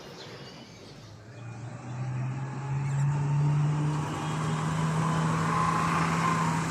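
A motor vehicle's engine running, growing louder and rising slightly in pitch about a second and a half in, then holding a steady hum.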